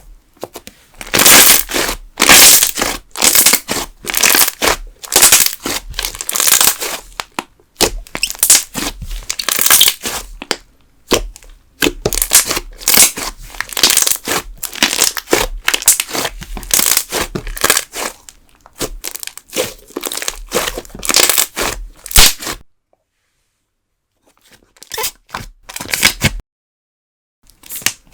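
Thick candle slime worked by hand, squished and stretched so that it gives off dense crackling and popping from its air bubbles in repeated bursts. Two short breaks of silence come near the end.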